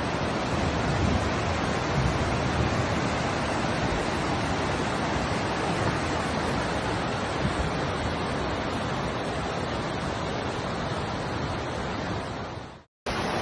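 Floodwater rushing steadily, a dense hiss of flowing water. It fades out near the end, breaks off for a moment and starts again.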